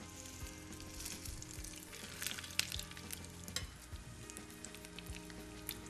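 Breaded duck croquettes shallow-frying in oil in a non-stick pan: a steady sizzle with sharp crackles, busiest around the middle, and light taps of metal tongs as the croquettes are turned.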